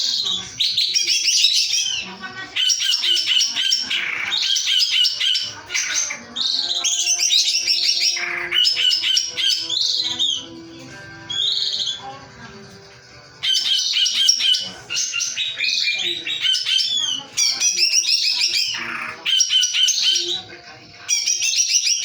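Cucak ijo (green leafbird) singing in rapid bursts of sharp, high chattering and whistled notes, the shots, rolls and screams of its song, with a lull of several seconds near the middle.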